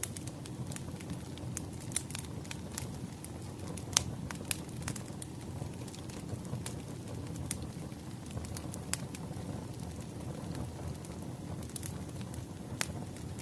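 Wood fire crackling: irregular sharp pops and snaps over a steady low rustle of burning logs, with one louder pop about four seconds in.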